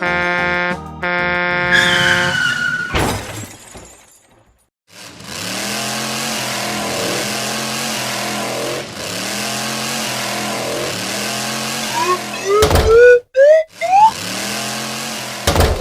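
Cartoon sound effects: a short musical jingle ending in a falling glide and a hit, then after a brief gap a toy-vehicle engine effect, a steady hiss with a pitched pattern repeating about once a second. Near the end it gives way to quick rising whistle-like glides and sharp hits.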